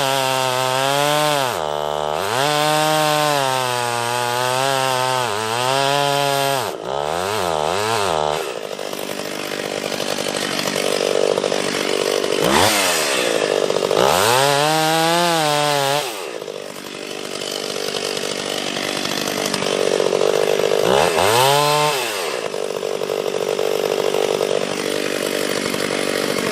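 Two-stroke chainsaw cutting into a tree trunk: the engine pitch sags under load in the cut and revs back up several times.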